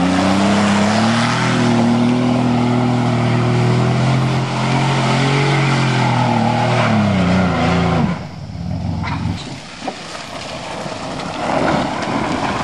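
A 1990 Buick sedan's engine revving hard and held at high revs while the car churns through mud and up a dirt hill. About eight seconds in, the revs fall and the engine sound drops away.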